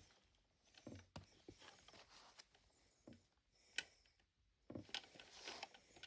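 Small plastic toy pieces being handled and set down: a few faint, light clicks and soft rustles, spread irregularly.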